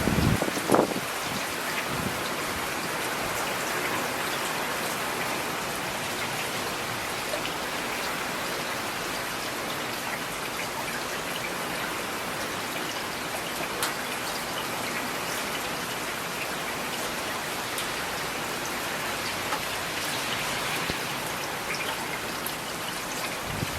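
Steady rain falling, an even hiss with scattered close drop taps, and a louder thump about a second in.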